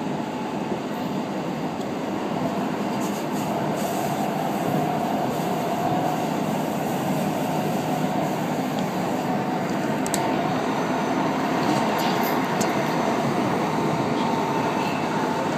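Running noise heard from inside a Keihan Electric Railway commuter train car in motion: a steady rumble of wheels and running gear with a faint steady whine, growing slowly louder.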